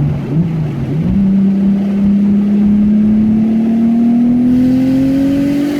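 Nissan RB26DETT straight-six with a single Precision 6266 turbo running on a dyno. A brief blip, then a long, slow, steady rise in revs, as in a wide-open-throttle pull under roller load.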